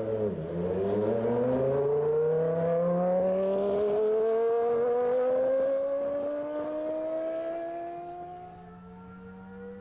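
Williams FW15C Formula One car's 3.5-litre Renault V10 engine at high revs. About half a second in the revs drop sharply and recover, then the pitch climbs steadily for several seconds as the car accelerates. The engine fades away over the last few seconds.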